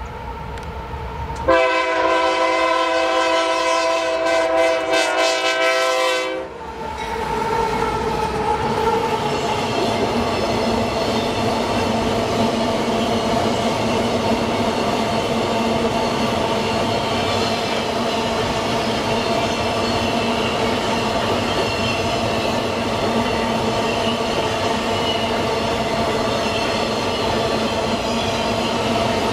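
GE AC44i diesel-electric locomotive's air horn sounding one long blast of about five seconds as the train approaches. Then empty iron-ore gondola wagons roll past in a steady loud rumble with squealing wheels.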